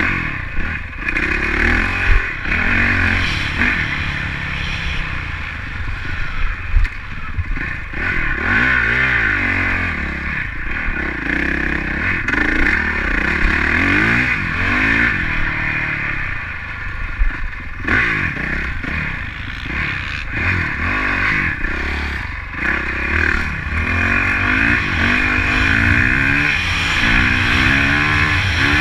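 Honda CRF four-stroke motocross bike engine revving hard and easing off over and over as it is ridden around a dirt track, its pitch rising and falling through the gears. Heard from on the bike itself, with a steady hiss and some clattering over the engine.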